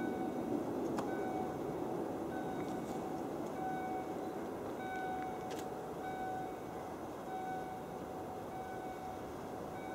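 Steady low rumble of an SP32 diesel locomotive and its train approaching, not yet in sight, with short faint tones repeating about once a second and a few light clicks.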